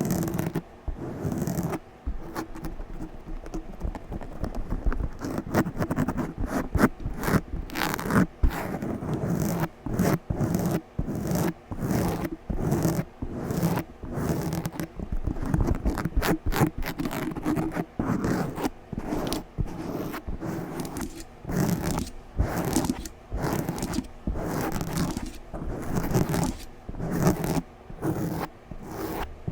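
A microphone being scratched hard and fast right on its surface: rapid, dense scraping strokes with many brief breaks.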